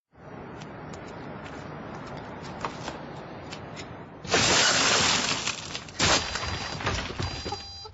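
Glass shattering in a loud crash about four seconds in, followed by a second smashing hit about two seconds later and small clinks of falling glass, over a steady low background rumble.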